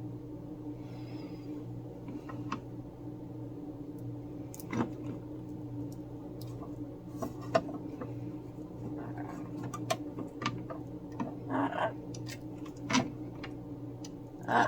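Scattered light clicks and taps of small objects being handled, over a steady low hum. A brief louder sound comes about twelve seconds in.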